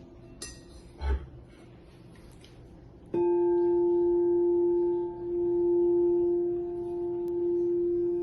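Tibetan singing bowl tuned to F struck about three seconds in and left to ring, a steady sustained tone that swells and eases. Before the strike there is only a faint hush and a soft knock about a second in.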